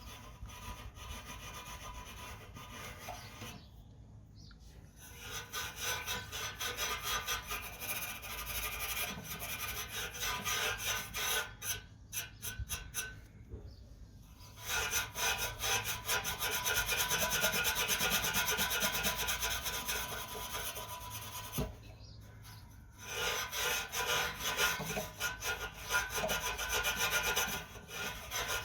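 Wire wool loaded with Autosol metal polish scrubbed back and forth against a metal exhaust tip in fast rasping strokes, stopping briefly a few times.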